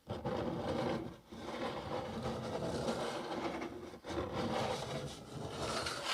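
Fingernails scratching along the underside of a cardboard box close to the microphone, in three long scraping strokes.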